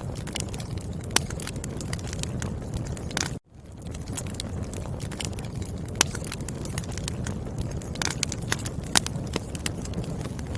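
Wood fire crackling, with sharp irregular pops of the burning logs over a steady low rumble of the flames. The sound cuts out for an instant about three seconds in and fades back in.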